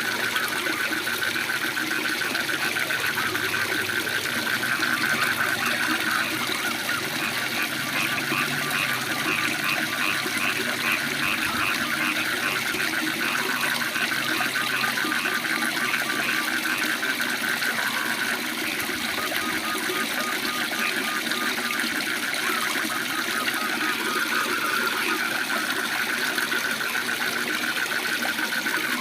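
Waterfall running steadily, with fast, pulsing trills from calling animals layered over the rush of water.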